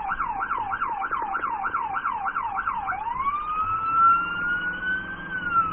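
Police car siren on a fast yelp, about four rising-and-falling cycles a second, switching about three seconds in to a slow wail that climbs and then starts to fall near the end.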